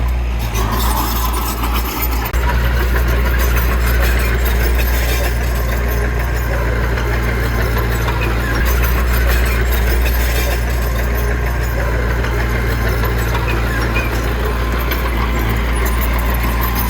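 Heavy earthmoving machine's diesel engine running steadily with a low drone.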